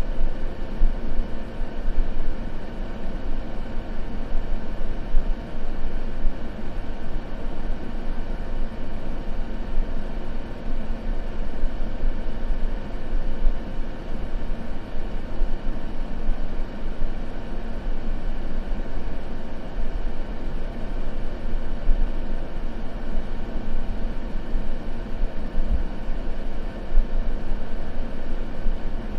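Steady, unchanging noise ambience with most of its weight in the low end and a faint even hum through it, with no crackles or breaks.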